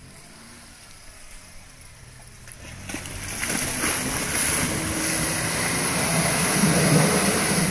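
Off-road 4x4's engine revving hard as it climbs a muddy track toward the listener. It starts faint, grows loud from about three seconds in and is at its loudest near the end.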